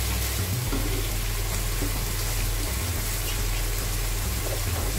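Chicken and vegetables sizzling in a frying pan on a gas hob as they are stirred with a wooden spatula: a steady, even hiss.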